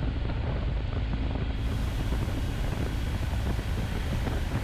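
BMW motorcycle cruising steadily in sixth gear, with engine and road noise running evenly under a constant rush of wind on a helmet-mounted camera's microphone.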